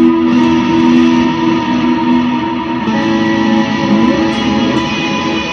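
Electric guitar through a Strymon BigSky, playing long sustained chords in a very wet, washy delay and reverb sound; a new chord comes in about three seconds in, with a brief gliding note shortly after.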